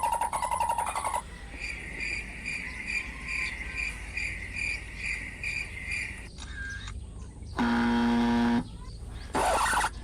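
A bird calling with a repeated short, high chirp, about two or three chirps a second for several seconds. A buzzy pulsing sound comes first, and later a loud pitched hum lasts about a second, followed by a short burst of noise near the end.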